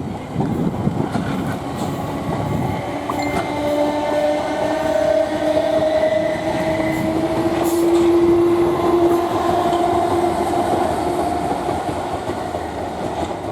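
Two-unit South Western Railway Class 455 electric multiple unit passing. It makes a steady rumble with an electric motor whine that rises slightly in pitch, and occasional wheel clicks.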